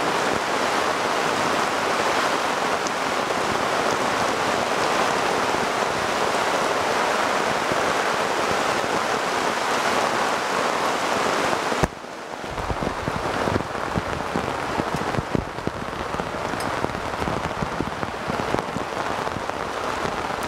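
Heavy rain, a dense steady hiss. About twelve seconds in it cuts abruptly to closer, uneven rain with many separate drop strikes and more low sound.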